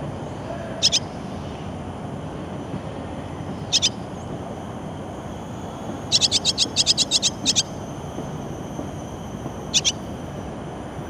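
Swallows giving short, sharp, high chirps: one near the start, a pair about 4 s in, a quick run of about ten around 6 to 7.5 s, and another pair near the end, over a steady low rumble of background noise.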